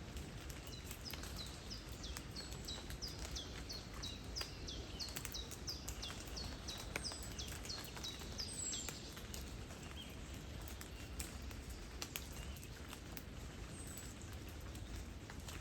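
Steady rain with scattered sharp drips. Over it, for the first half or so, a songbird repeats short falling chirps, about two a second.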